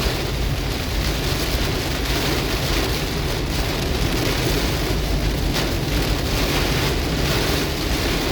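Heavy cloudburst rain pounding on a moving car, heard from inside the cabin as a steady, dense roar mixed with road noise.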